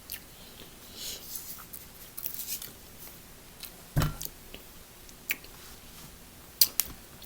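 Salt shaken from a shaker onto food in two short rattling bursts, followed by a sharp thump and a few clicks from handling food and tableware, with faint chewing.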